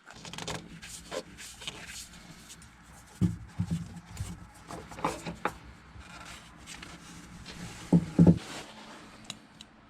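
Scattered clicks, knocks and rubbing of hand work at the skid steer's engine while the old oil filter is being loosened and taken off, with two louder thumps about three seconds and eight seconds in, over a faint steady hum.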